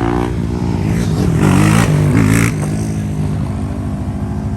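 Motorcycle engines revving on a street, the pitch rising and falling with the throttle and loudest about halfway through, then dropping to a steadier, lower running note.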